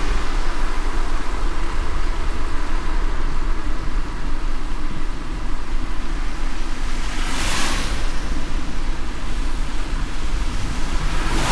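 Car driving in light rain: a steady low road rumble under wet tyre hiss, with a brief whoosh a little past halfway through.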